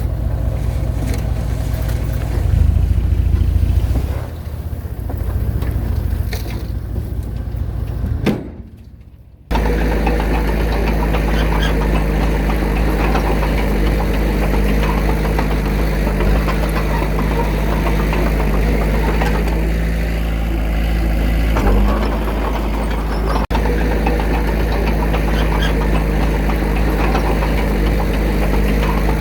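Diesel engine of heavy earthmoving machinery running, loud and uneven for the first several seconds. After a brief drop about nine seconds in, it runs on steadily at one constant pitch.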